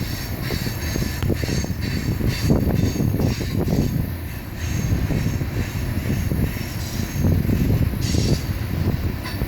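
BNSF freight train rolling across an old railway trestle: a steady heavy rumble with a constant clatter of wheels, and faint high wheel squeal over the top.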